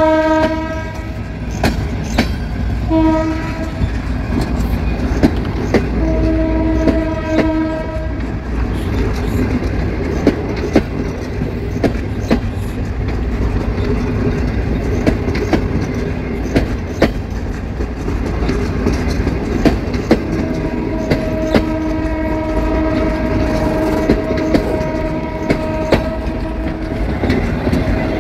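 Passenger train pulling out, its coaches rolling past close by with a low rumble and wheel clicks over the rail joints. The EMD GT22CW-3 diesel locomotive's horn sounds ahead: a blast ending about a second in, a short one around three seconds, another from about six to eight seconds, and a long one through the last seven seconds.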